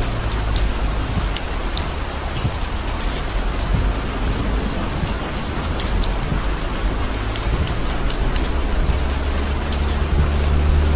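Heavy rain falling on a car's windshield and roof, heard from inside the car, with many single drops ticking on the glass. Under it a low steady hum of the moving car, louder near the end.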